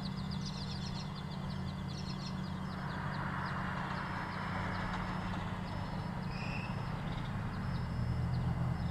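Birds chirping in quick repeated calls, dense at first and thinning out after a couple of seconds, over a steady low hum of traffic, with a vehicle rushing past in the middle.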